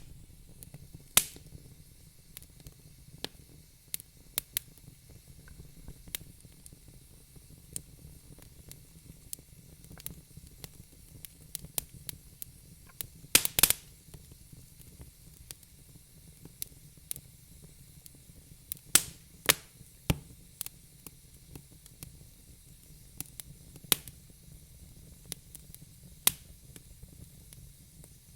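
Wood fire crackling in a fireplace: irregular sharp pops and snaps over a low steady rumble of the flames, with a loud cluster of pops about halfway through.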